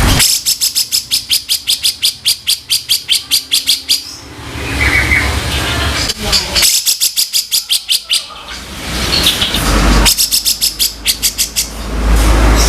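Grey-cheeked bulbul (cucak jenggot) giving harsh, rattling 'kasaran' calls: three runs of fast, evenly repeated sharp notes, about six or seven a second, with a low rumble in the pauses between.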